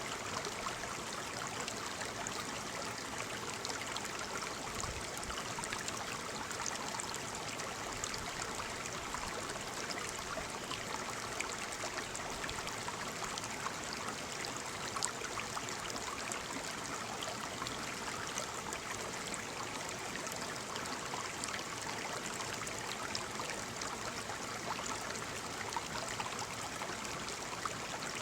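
Waterfall: water falling and splashing in a steady rush, with small sharp splashes flecking through it.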